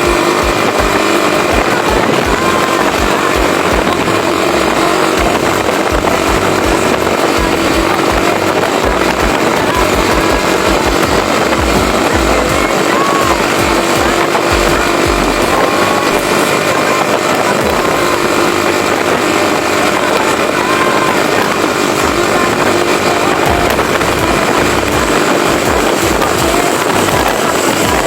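Motorcycle riding at steady speed, its engine and the rush of wind over the microphone making a loud, even noise, with music playing underneath.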